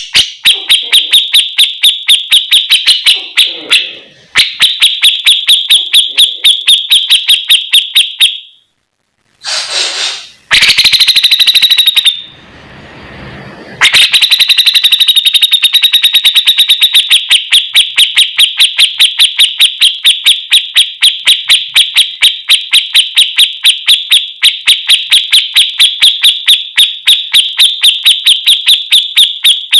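Songbird masteran recording: a fast, even train of high chirps, about four a second, with a brief break and a different rougher call about a third of the way in before the steady chirping resumes.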